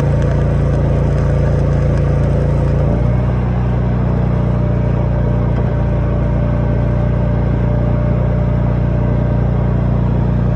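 An engine running steadily with a low drone; its note changes about three seconds in, then holds steady again.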